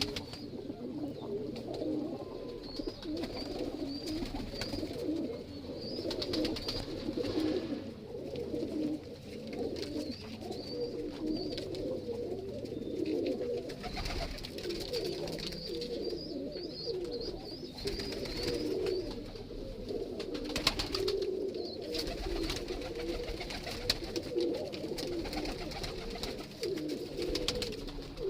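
Many domestic pigeons cooing at once in a steady, overlapping chorus, with runs of short high chirps recurring every few seconds over it.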